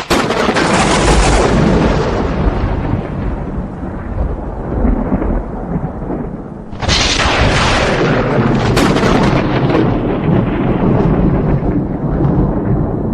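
Thunder: a sharp crack at the start turns into a long rolling rumble that slowly fades, then a second loud clap about seven seconds in, with another sharp crack shortly after, rolling on into rumble.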